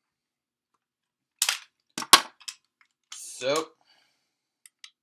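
Hard plastic toy pieces of the DX Zyuohger cube robot clicking and snapping as they are handled and fitted together: four sharp clicks in about a second, the third the loudest.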